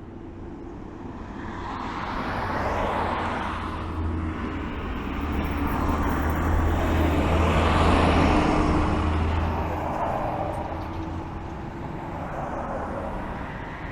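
Road traffic passing close by: a broad rushing noise that swells and fades twice, loudest about eight seconds in.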